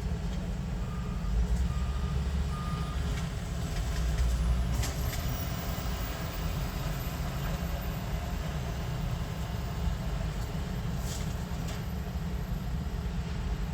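A truck's engine idling with a steady low rumble, with three short reversing beeps from a backing vehicle between one and three seconds in. A couple of brief knocks come later.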